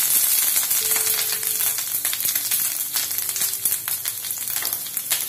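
Chopped green chilli and minced ginger sizzling in hot oil in a non-stick frying pan, with many small crackles, while a silicone spatula stirs them.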